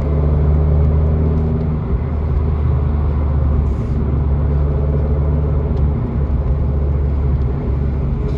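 Abarth 595C's turbocharged 1.4-litre four-cylinder with a Record Monza sports exhaust, running with a steady low drone at a constant highway cruise, heard from inside the cabin over road noise.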